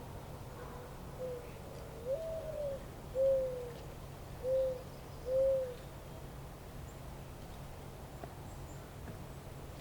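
A dove cooing: one phrase of five low notes, the second long and stressed, the last three shorter and separated by short gaps.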